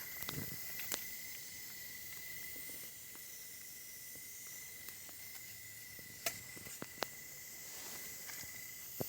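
Bonfire crackling: a few sharp pops scattered over a steady high hiss, with a thin steady high tone throughout.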